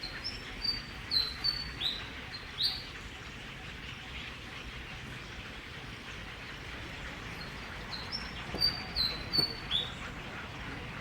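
Small bird chirping: a quick run of short high notes, several sliding downward, in two bouts, one at the start and one about eight seconds in, over a steady background hiss.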